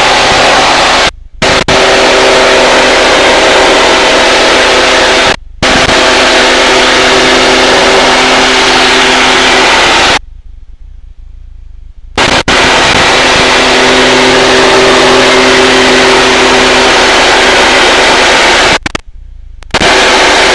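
Aircraft cockpit noise heard through a pilot's headset intercom during formation flight: a loud, steady noise with several steady hum tones from the engine, cutting out suddenly four times, once for about two seconds near the middle.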